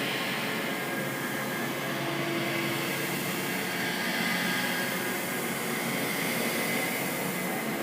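Spooky sound-effect ambience: a steady hissing drone with faint held tones and no distinct events.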